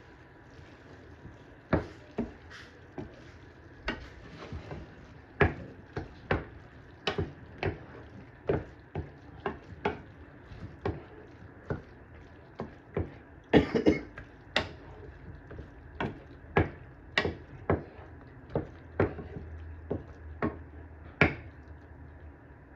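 Cooking utensils knocking and clinking against pans and dishes, sharp separate knocks about once a second, with a louder clatter about fourteen seconds in.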